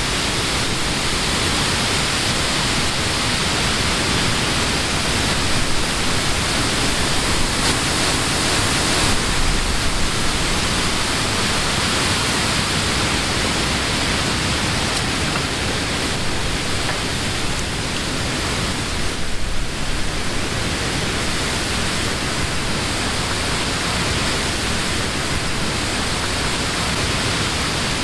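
Summer wind blowing steadily through the leaves of trees, a constant rushing hiss that swells slightly in a couple of brief gusts.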